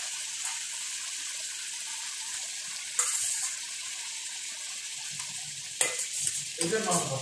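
Chunks of canned tuna sizzling in oil and masala in a steel wok, a steady frying hiss, with a few sharp knocks of the slotted spatula against the pan, about three seconds in and again near the end.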